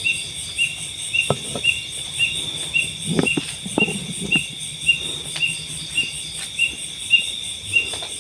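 Night insects chirping: a steady, even chirp about three times a second over a continuous high-pitched buzz. A few soft knocks come in the middle.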